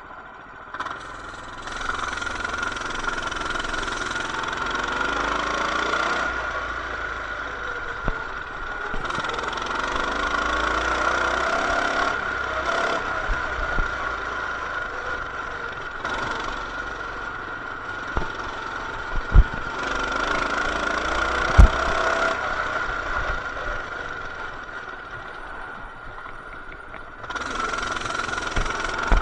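Coleman BT200X mini bike's small single-cylinder engine running under way, its pitch rising and falling several times as it speeds up and eases off. Two sharp knocks come a little past the middle.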